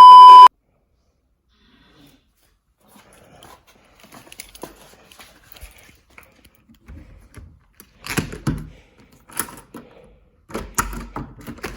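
A loud, steady electronic beep lasting about half a second, then faint scattered clicks and knocks of handling, with brief louder muffled sounds near the end.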